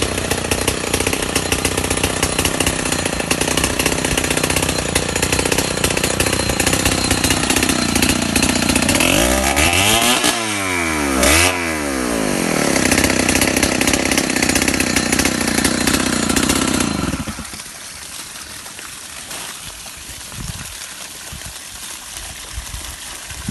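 A small engine running steadily, its pitch swinging up and down briefly around ten to twelve seconds in, then stopping about seventeen seconds in.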